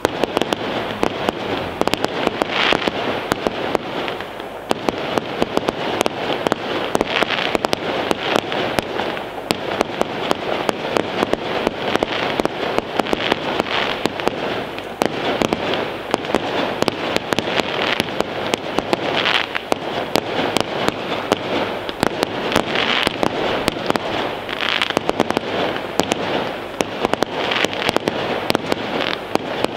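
Fireworks display: aerial shells and cakes firing and bursting continuously, many sharp bangs and crackles in quick succession, with a louder burst every few seconds.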